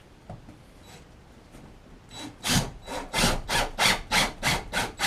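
Rhythmic back-and-forth strokes of a hand tool working wood, about three a second, starting about two seconds in.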